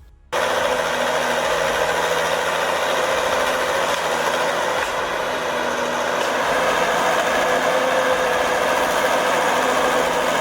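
Valmet 840.3 forestry forwarder's diesel engine running steadily at a low, even pace, with a held whine on top. It comes in abruptly just after the start.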